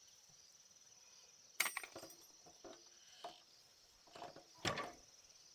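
A few sharp metallic clinks and knocks, two of them louder, about a second and a half in and near the end, as parts or tools are handled. Insects chirr steadily underneath.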